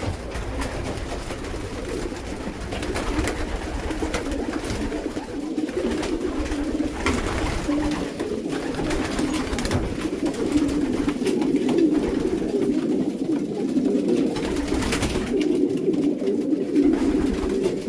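Many racing pigeons cooing together without a break in an enclosed loft. The cocks are calling to hens just let in with them.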